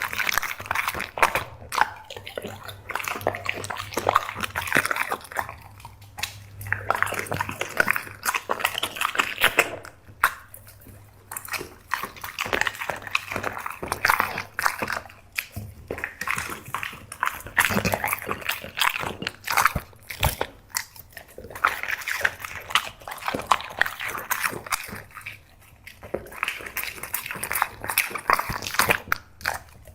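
Black Labrador chewing and crunching dried seafood snacks: rapid crunches in bursts of a few seconds, with short pauses between mouthfuls.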